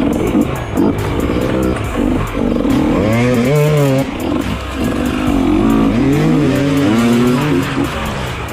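Dirt bike engine revving up and down over and over, its pitch rising and falling every second or so.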